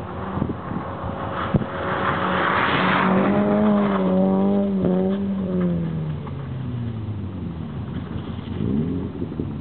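A 2007 Honda Civic coupe's 1.8-litre four-cylinder engine revving hard while its tyres spin and slide on packed snow, building to a rushing peak. The revs hold high for a few seconds, then fall away steadily as the car comes out of the spin.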